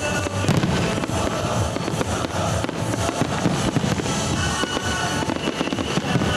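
Fireworks bursting and crackling in quick succession over music.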